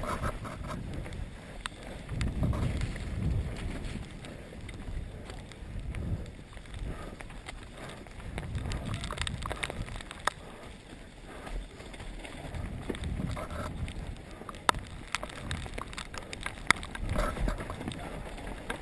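Mountain bike descending a rough trail: wind rumbles on the microphone in surges, with the bike rattling and sharp knocks as it hits bumps, several of them in the second half.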